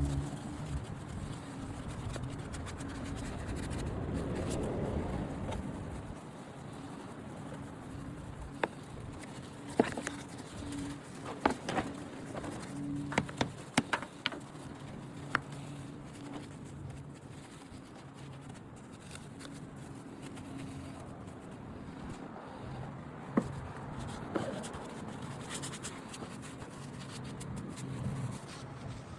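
An electric pressure washer's motor and pump humming, switching on and off as the trigger is worked, with scattered sharp clicks and knocks.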